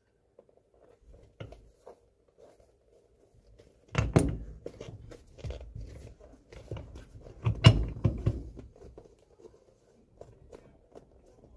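Knocks and taps as a hot, glued leather midsole is handled and set onto a boot's bottom. A scatter of small knocks runs through it, with two loud knocks about four seconds in and again near eight seconds.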